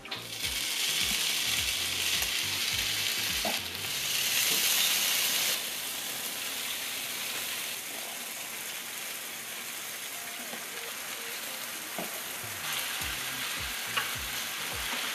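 Cooked Buldak spicy noodles sizzling as they are poured onto a hot electric grill pan, loudest for the first five seconds or so, then a steadier, quieter sizzle as chopsticks spread them, with a few light taps.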